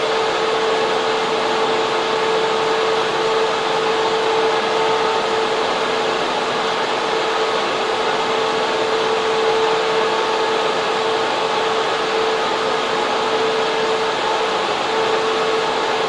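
Data center server room, its server fans and air cooling running: a loud, steady rushing noise with a constant mid-pitched hum through it.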